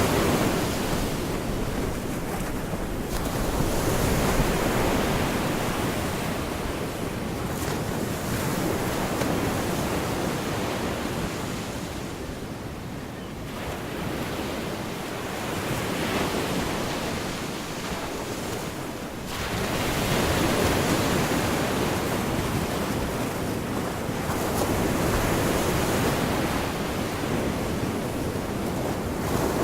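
Gulf of Mexico surf washing onto the beach, the rush of water swelling and fading as waves break every few seconds, with wind buffeting the microphone.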